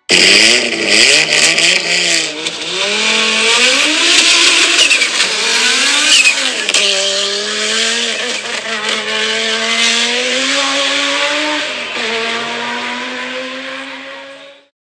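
Audi Sport Quattro S1 rally car's turbocharged five-cylinder engine revving hard, its pitch climbing and dropping repeatedly through gear changes. It then holds a steadier, slowly falling note and fades out near the end.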